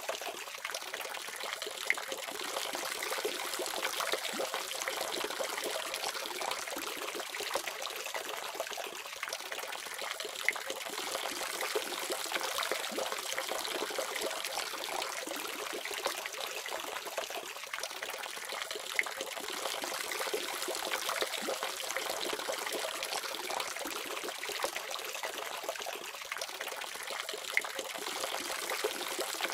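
Tap water running steadily from a faucet, a continuous splashing with many small spatters.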